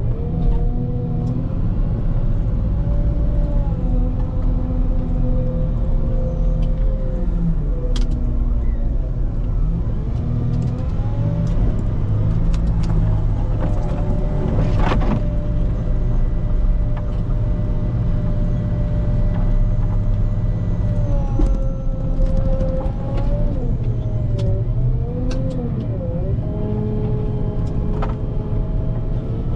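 Volvo L90H wheel loader's diesel engine running steadily while it plows snow, with a whining tone that rises and falls as the machine works. A few sharp clicks, and one strong knock about halfway through.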